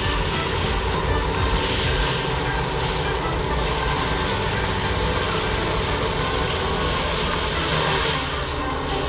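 Mini excavator running steadily, its engine and hydraulics driving a brush cutter head, with a constant high hiss over the engine note.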